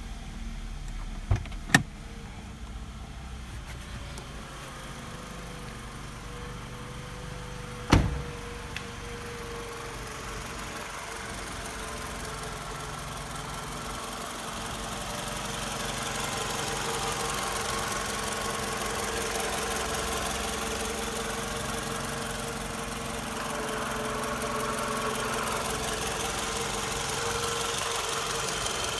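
Toyota 2AZ-FE 2.4-litre inline-four petrol engine idling steadily. Two sharp clicks come about a second and a half in and a single loud knock about eight seconds in, and the engine grows louder about halfway through.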